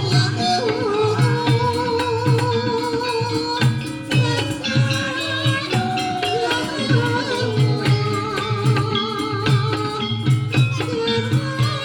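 Ebeg dance accompaniment: Javanese gamelan music with a steady low drum beat, sharp struck and shaken percussion, and a wavering melody line above.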